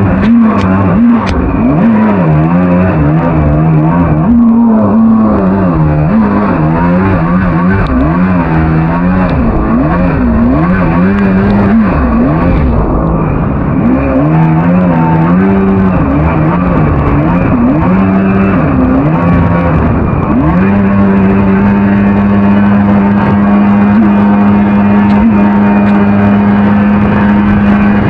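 Engine of an 8 ft mini jet boat running under way, its pitch rising and falling again and again with throttle changes, then held at a steady, high pitch for the last seven or so seconds.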